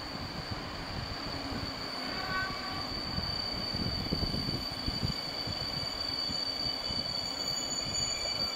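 PKP EP09 electric locomotive hauling an InterCity passenger train, approaching slowly through a curve. Its wheels rumble and knock on the rails, growing louder as it nears, with a steady high whine over the rumble.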